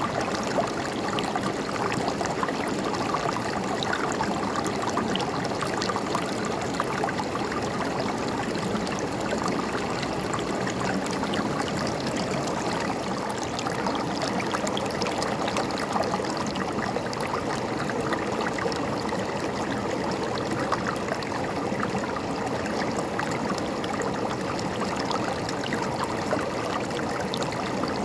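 A river's water flowing and gurgling over rocks, a steady babbling with small splashes throughout.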